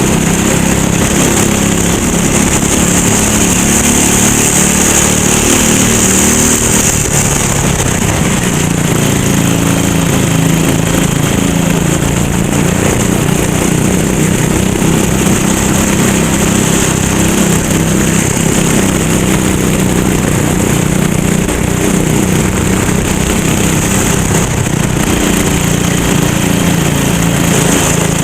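Go-kart engine running hard during a race, its note shifting up and down continuously, with a high hiss that is strongest for the first several seconds and again near the end.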